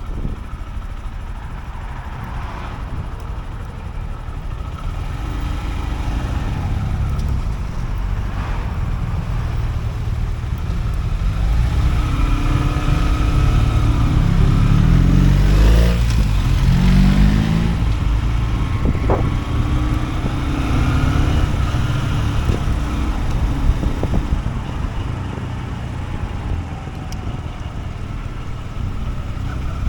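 Honda CB125F motorcycle being ridden: its small single-cylinder engine running under heavy wind rush. The sound grows louder through the middle, with the engine note gliding up and down in pitch about halfway through.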